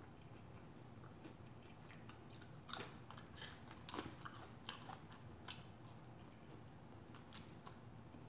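Quiet close-up chewing and biting of fried chicken wings, with scattered short crunches and mouth clicks, most of them in the middle.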